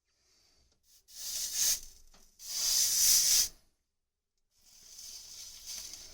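Hot freshly soldered copper pipe joint sizzling as a last bit of flux goes onto it, in three hissing bursts; the middle one is the longest and loudest, and the last is fainter.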